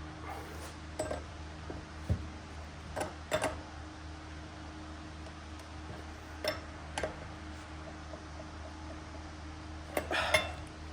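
Small hard parts being handled: scattered clicks and knocks, several close together about three seconds in and again near the end, over a steady low hum.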